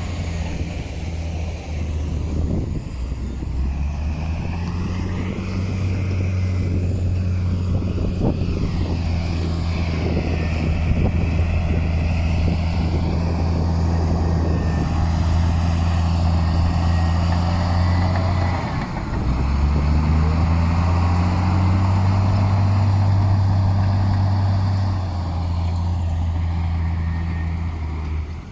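Heavy diesel engine of earthmoving machinery working under load. It picks up revs about four seconds in, drops briefly past the middle, comes back up, then eases near the end. Knocks and rattles sound over it during the first few seconds.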